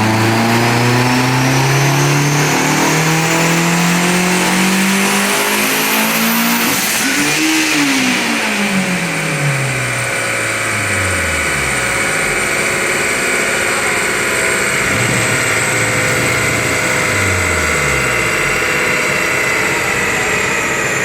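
Turbocharged Hyundai Elantra making a full-throttle dyno pull: the engine revs climb steadily for about seven seconds with a thin high whine rising alongside, then it lifts off and the revs fall away as it coasts down, with a couple of shorter blips of the throttle later.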